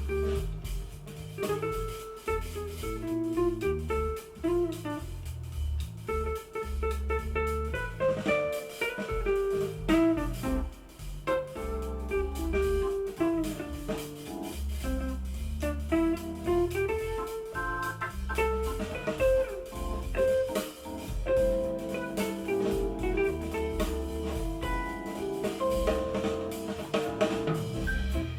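Music played through Edifier S2000 MkIII powered bookshelf speakers and picked up in the room by a camera's built-in microphone: a band track with a steady, bass-heavy beat and a moving melody line.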